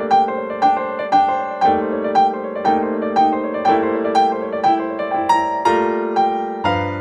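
Background music: a piano playing single notes about twice a second over held chords, each note ringing and fading.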